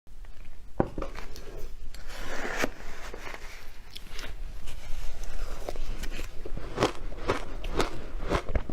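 Close-miked biting and chewing of crunchy milk powder: a string of sharp crunches with a crackle between them, coming faster near the end.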